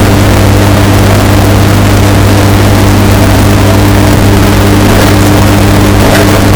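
Washing machine running with a steady low motor hum, heavily bass-boosted and distorted so it plays very loud, near full scale.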